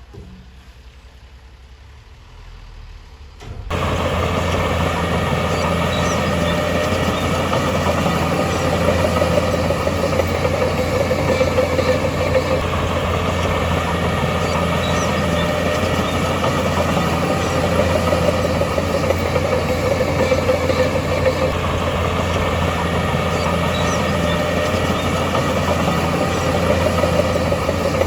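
Heavy earthmoving machinery's diesel engine running steadily with a deep, even drone. It comes in suddenly about four seconds in, after a quiet stretch.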